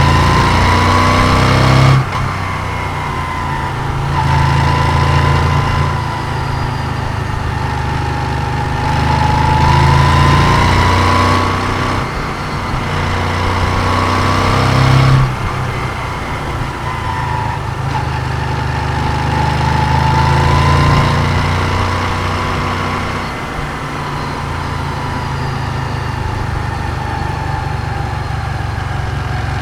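Moto Guzzi V7's air-cooled transverse V-twin running while riding, with a rising and falling whine over the rumble. The throttle is opened and closed several times, with sharp drops about two and fifteen seconds in; the engine runs more steadily over the last few seconds.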